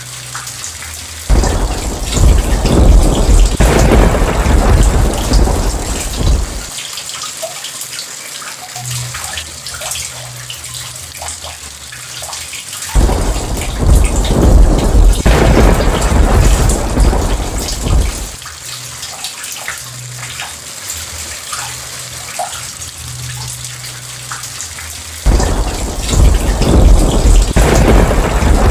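Steady heavy rain with thunder rolling three times, each long low rumble starting suddenly and lasting about five seconds.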